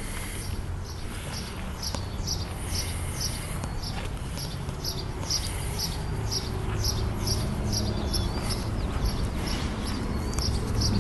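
A bird repeating a short high chirp over and over, about three times a second, with a few gliding notes later on, over a steady low rumble.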